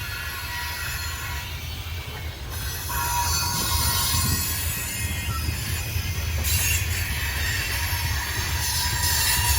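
Freight train cars rolling past with a low rumble and a high-pitched wheel squeal. About three seconds in a steady squeal tone comes in and the sound gets louder.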